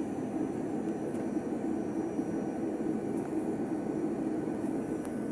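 Steady engine and airflow rumble of an airliner heard inside the passenger cabin, even and unchanging.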